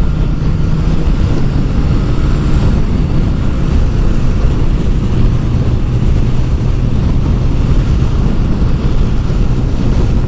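Motorcycle engine running at a steady road speed, with road noise, recorded by a camera mounted on the bike; the engine note settles a little lower a few seconds in.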